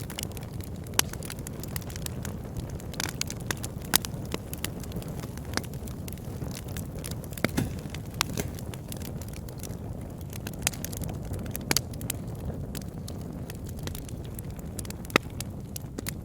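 Fire crackling in a fireplace: a steady low rumble of burning with sharp pops at irregular intervals, the loudest about four seconds in and near the end.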